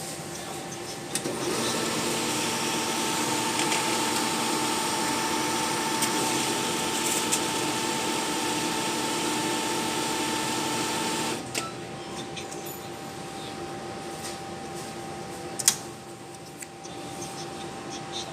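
ATM cash-handling mechanism running with a steady motor whirr and whine for about ten seconds, then stopping, leaving a quieter hum with scattered clicks and one sharp click.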